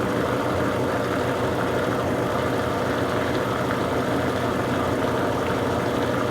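Consul Super Cargo 8 kg top-loading washing machine in its spin cycle on a load of towels: motor and drum spinning at a steady speed with a constant hum.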